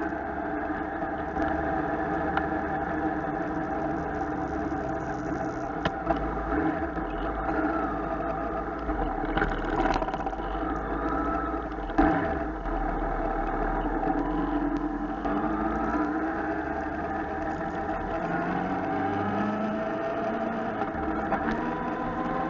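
Motorcycle engine running at low speed through a turn, then rising in pitch as it accelerates in the last few seconds. A single sharp knock is heard about halfway through.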